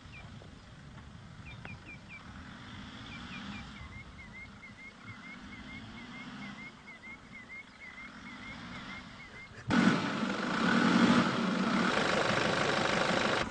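Short bird chirps repeating at about four a second over a faint low hum. About ten seconds in, this cuts abruptly to the much louder sound of the Nissan Patrol's engine running with a dense rushing noise.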